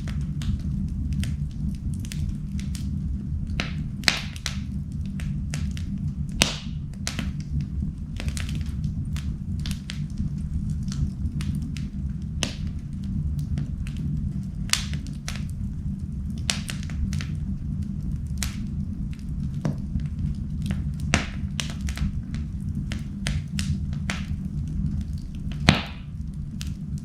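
Wood fire burning in a fireplace: a steady low rumble from the flames, with sharp cracks and pops at irregular intervals. A few pops stand out louder, one shortly before the end.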